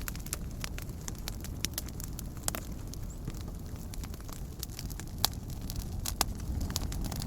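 Wood campfire crackling, with irregular sharp pops scattered through it, three of them louder, over a steady low rumble.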